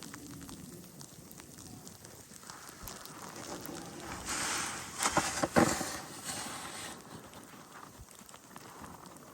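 Crunching and scraping in snow, with a louder stretch of scraping and sharp knocks from about four to six and a half seconds in.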